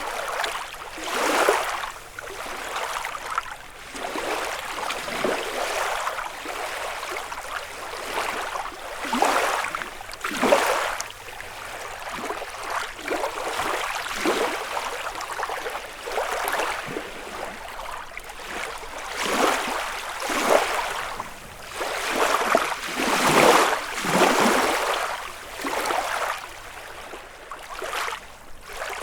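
Small lake waves lapping and washing onto the shore of Lake Kussharo, in irregular swishing surges every second or two.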